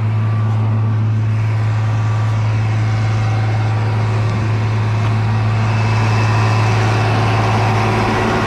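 Corn-grinding machinery running: a steady, loud machine drone with a strong low hum, growing a little louder over the last few seconds.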